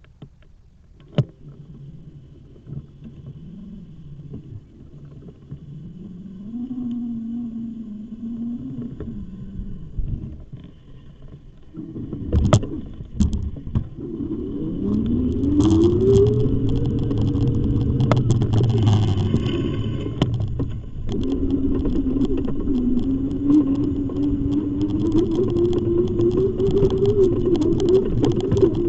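A motor running, quiet at first, then louder about halfway through, with a tone that rises in pitch and then climbs slowly while it runs on, under rattling and clicks.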